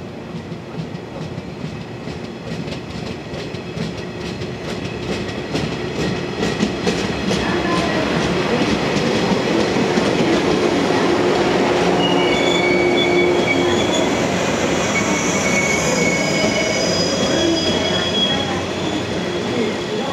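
Electric multiple-unit train running past on the rails, growing louder as it draws near, its wheels clicking rapidly over the rail joints. Once it is alongside, a high-pitched wheel squeal sets in and carries on to near the end.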